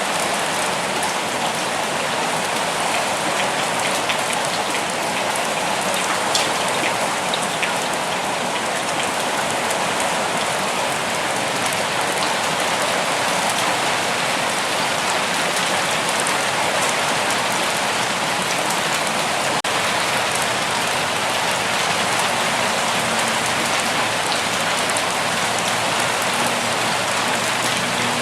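Steady rain falling and pattering on surfaces, with a few individual drops ticking through it.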